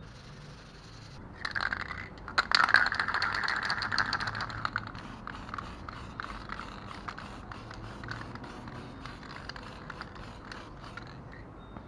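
Aerosol can of clear-coat spray paint in use: a hissing spray with rattling clicks, loudest during the first few seconds and then fainter, regular clicking.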